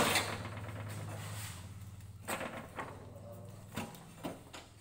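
Handling knocks and clicks of gloved hands working the LPG hose fitting on a stainless-steel gas stove: one sharp knock at the start, then a few lighter clicks, over a steady low hum.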